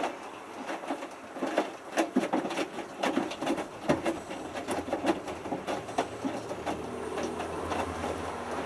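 Hotpoint Futura HF8B593 washing machine in its main wash, the drum tumbling a small load of three t-shirts in water: irregular splashes and slaps of the wet washing, with a steady low motor hum coming up near the end.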